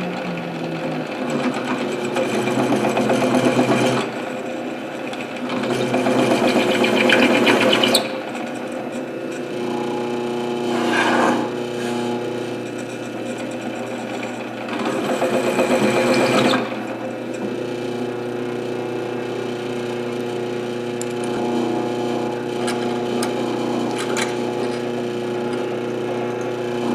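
A power tool's motor running steadily, with four bursts of louder, rougher cutting as a chamfer cutter countersinks holes in a metal part.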